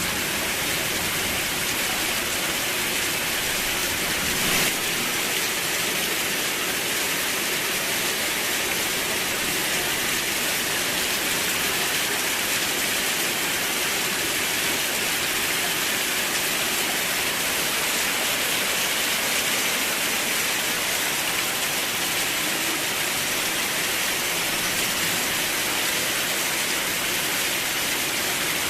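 Steady heavy rain, an even hiss with no change in strength. One short sharp crack stands out about four and a half seconds in.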